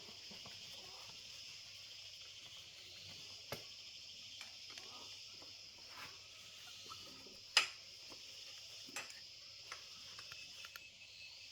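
Steady chorus of insects chirring, with a few sharp clicks and knocks over it; the loudest knock comes about two-thirds of the way through.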